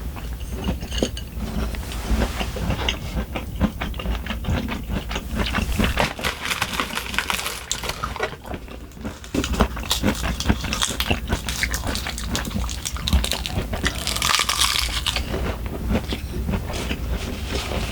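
Close-miked chewing and eating sounds, with many short clicks of utensils against dishes and a brief louder rustling noise about fourteen seconds in.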